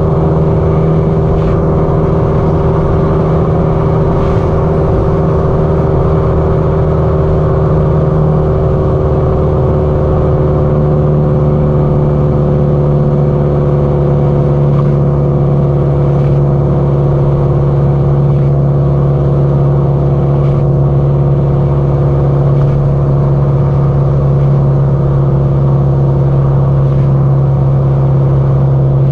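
Exhaust note of a Subaru Impreza WRX STI (GDB-E) turbocharged flat-four through an aftermarket muffler, cruising steadily at speed, its engine pitch slowly easing down.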